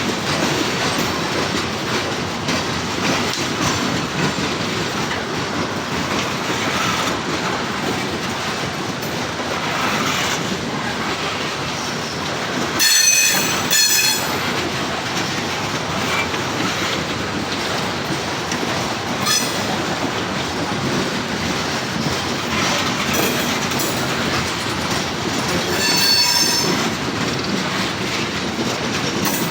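CSX freight train rolling past with a steady rumble of wheels on rail. Brief high-pitched wheel squeals come twice about halfway through, once shortly after, and again near the end.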